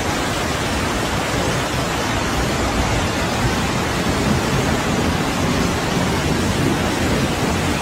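Loud, steady rushing of water, an even hiss with no breaks.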